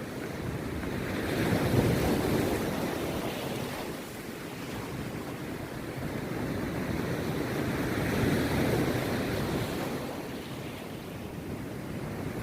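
Rough sea surf breaking on a beach, the wash of waves swelling twice, about two seconds in and again about eight seconds in, and ebbing between.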